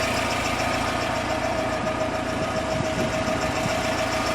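UMZ-4216 2.9-litre four-cylinder petrol engine of a GAZelle Business idling steadily, with a steady whine over the engine sound.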